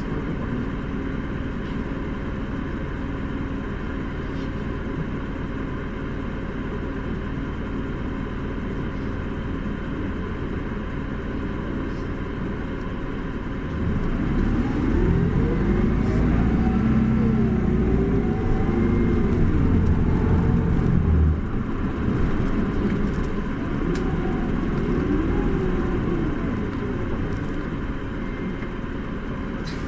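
Isuzu Erga city bus's four-cylinder diesel heard from inside the cabin. It runs at a steady low hum, then about halfway through it pulls away: the engine note climbs and drops through the gears. It eases off, then pulls again briefly near the end.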